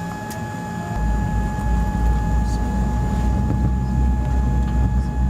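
Cabin noise inside a Boeing 787-8 airliner: a steady deep rumble with faint steady whining tones over it. The rumble gets much louder about a second in.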